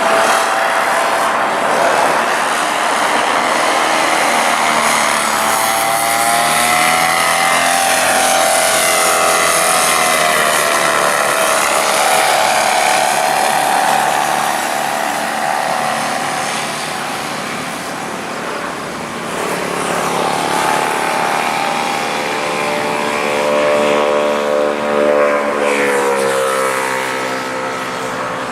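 Motor and propeller of a radio-controlled model aircraft in flight, a high whine that keeps sliding up and down in pitch as it passes back and forth and the throttle changes.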